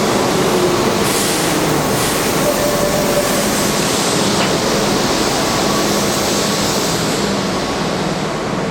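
Keihan 6000 series electric commuter train running, a steady loud rumble of wheels on rail with faint held motor tones, easing off slightly near the end.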